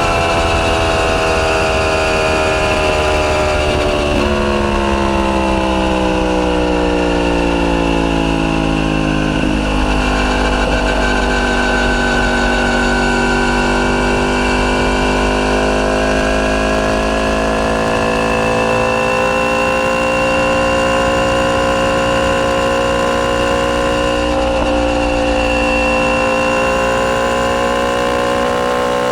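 Yamaha YZF-R1's crossplane inline-four through an Akrapovic full titanium exhaust. The engine note falls as the bike slows, with a downshift about four seconds in that lifts the pitch, then it runs at a fairly steady pace with gentle rises and dips.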